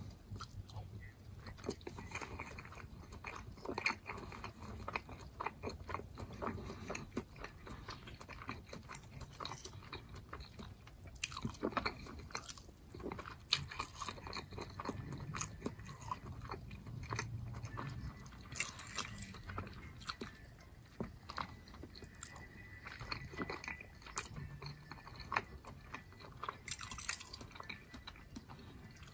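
Close-miked chewing of mouthfuls of ground turkey, potatoes, chicken, squash and rice: a continuous run of soft wet mouth sounds and small crunches. A metal fork scrapes and clicks against the ceramic plate now and then.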